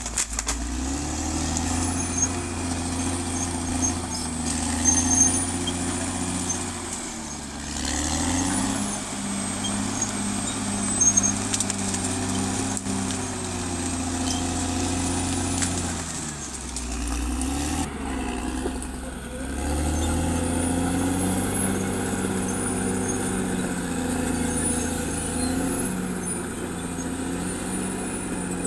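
Caterpillar D6R XL bulldozer's diesel engine working, its note dropping and picking up again several times as the load changes. There are a couple of sharp clanks, and a thin, wavering high whine sits above the engine.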